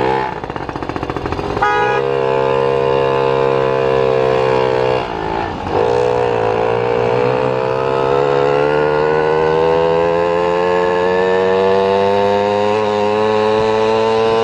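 A small petrol engine running steadily at high speed. About five seconds in its pitch dips briefly, then it creeps slowly upward.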